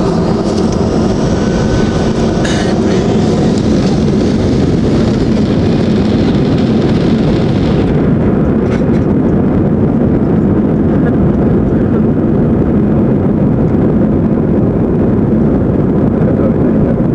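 Airliner's jet engines at takeoff thrust, heard inside the passenger cabin: a loud, steady noise with a deep rumble. The higher hiss drops away about eight seconds in, while the rumble carries on.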